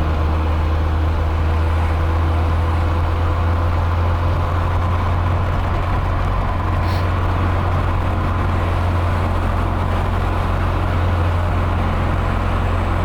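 Nissan 240SX engine and exhaust droning low and steady as the car cruises without rev changes, the exhaust holed and leaking.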